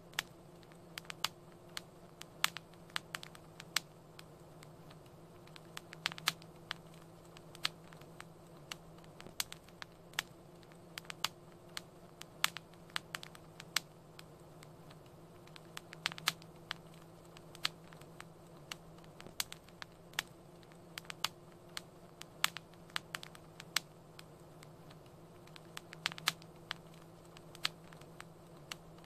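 Fire crackling in a fireplace: irregular sharp pops and snaps, a few a second, over a low steady hum.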